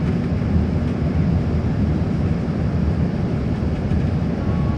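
Airliner cabin noise during landing: a steady, low rumble of engines and rushing air.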